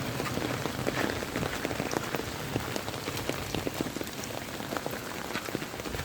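Pouring rain falling steadily, with many individual drops ticking sharply as they land.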